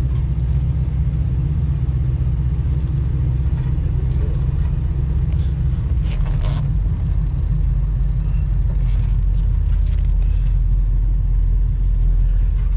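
Steady low rumble of a Ford's engine and road noise, heard from inside the cabin while driving slowly. About halfway through, the rumble settles into a deeper hum.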